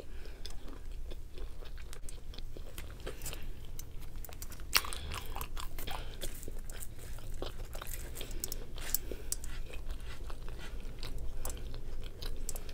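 A person chewing a mouthful of burger and crinkle-cut fries, with many scattered small crunches and clicks.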